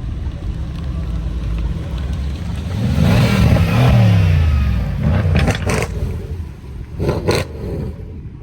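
Cars driving off, with steady engine rumble. One car's engine revs up and falls away as it passes close about three seconds in, the loudest moment. Two shorter loud bursts follow a few seconds later.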